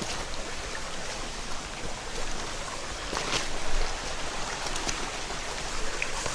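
Headwater mountain stream flowing over rocks, a steady rush of water, with a brief louder splash about three seconds in.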